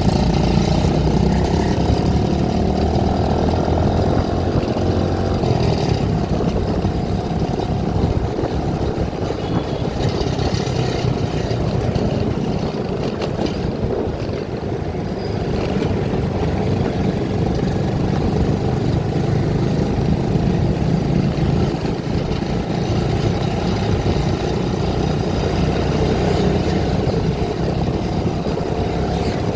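A vehicle engine running steadily while driving, with road noise, its pitch shifting slightly over time.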